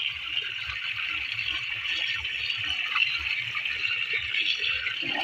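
Irrigation water flowing steadily out of a fully opened deep tube well outlet.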